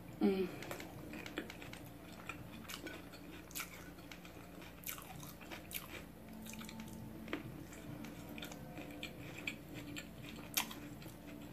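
A person biting into and chewing a fresh rice-paper spring roll close to the microphone, with soft mouth clicks scattered throughout.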